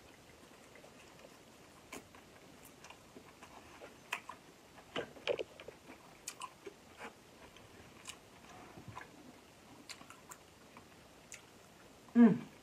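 Close-up chewing and wet mouth clicks of someone eating soft king crab meat dipped in a mayo mustard sauce. A short voice sound comes about five seconds in, and a louder one near the end.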